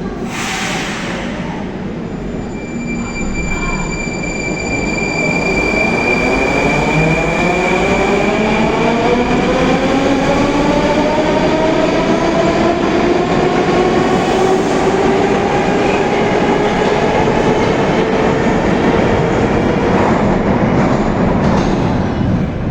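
Rusich (81-740/741) metro train pulling away, its traction motors whining with a pitch that rises for several seconds and then levels off, over the rolling noise of the wheels. A short hiss comes right at the start.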